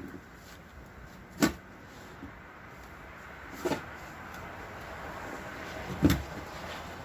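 Three separate sharp knocks or clunks, about two seconds apart, the last the loudest, over a faint steady hiss.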